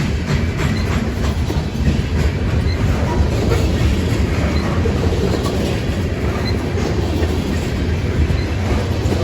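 Loaded grain train's freight cars rolling past at speed: a steady, loud rolling noise from steel wheels on rail, with clicks as the wheels cross rail joints.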